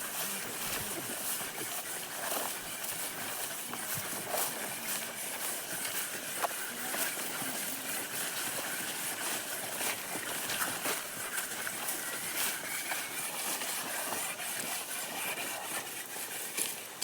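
Footsteps crunching through jungle undergrowth, with scattered clicks and snaps over a steady high hiss of outdoor ambience.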